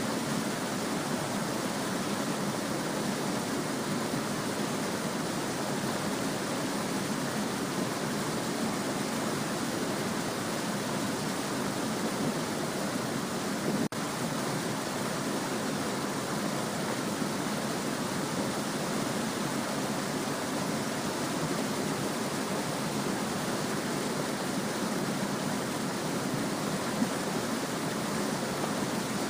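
A small stream babbling steadily, an even rush of flowing water, with a momentary break about halfway through.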